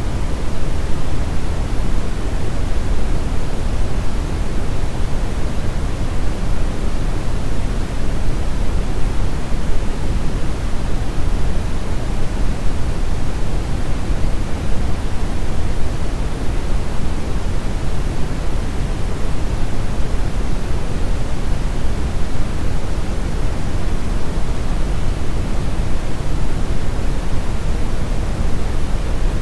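Steady synthetic brown noise: an even, deep rushing hiss weighted toward the low end, with no rhythm or events.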